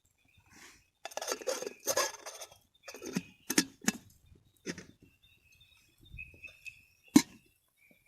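Camp cookware and utensils being handled: a rustle lasting about a second and a half, then a run of clinks and knocks, the loudest a single sharp knock near the end.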